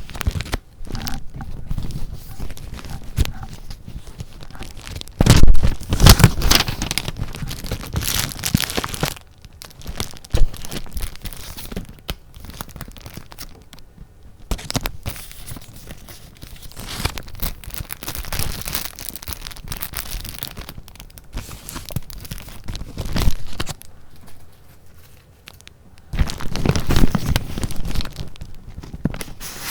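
Close-up paper handling: sheets of junk-journal paper rustling and crinkling, irregular and uneven, with louder stretches of crinkling about five seconds in and again near the end.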